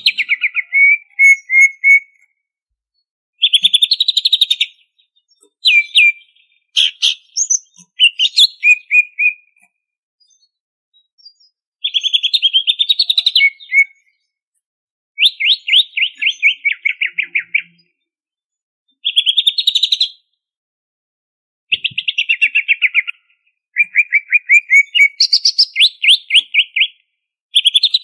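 Cucak ijo (green leafbird) singing in loud phrases of rapid, repeated chattering notes, each phrase a second or two long with short pauses between.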